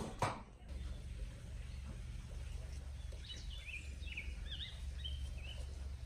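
Outdoor ambience: a steady low rumble, with a small bird calling a quick run of short high chirps through the second half. Two sharp knocks come at the very start.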